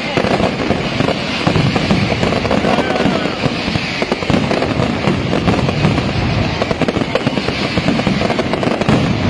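Night-time mascletà: a dense, continuous barrage of firecracker bangs and crackling from ground-level pyrotechnics, with aerial fireworks going off overhead.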